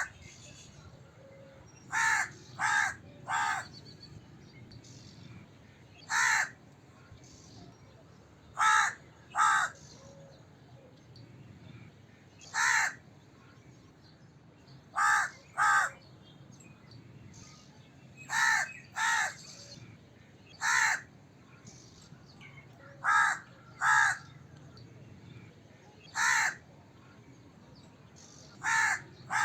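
Crow cawing: short harsh caws given singly or in quick runs of two or three, a fresh bout every few seconds.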